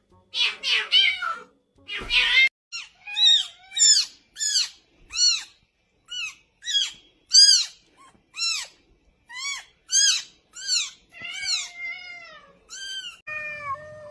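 Cat meowing over and over: a few rough, noisy cries at first, then a run of short, high-pitched mews, about two a second, each rising and falling, with a few lower, longer meows mixed in.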